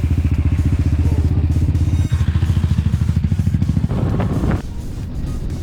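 Motorcycle engine running with a fast, even low putter while riding, the sound dropping lower about four and a half seconds in.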